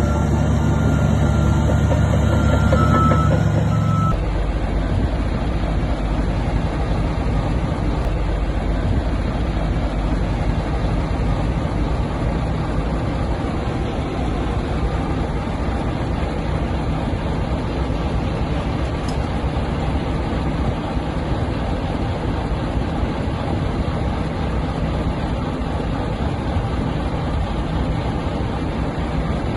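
Heavy earthmoving machinery working: a diesel engine running under load with a dense, rough rattle. A steady low drone cuts off abruptly about four seconds in.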